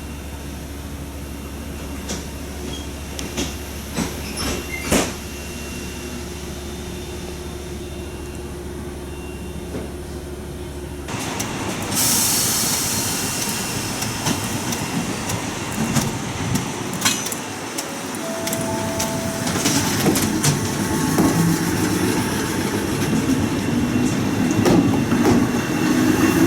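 Fukui Railway tram running on its line. A steady low hum fills the first ten seconds or so; then the sound changes abruptly to the car's running noise, with wheel clicks and motor tones, growing louder toward the end.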